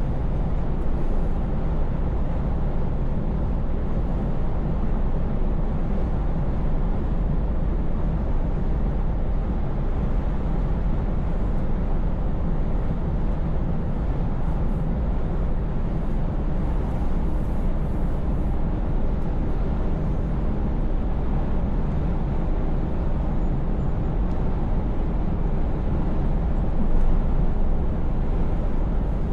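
Scania S580 truck on the move: steady V8 engine rumble under road noise, briefly louder near the end.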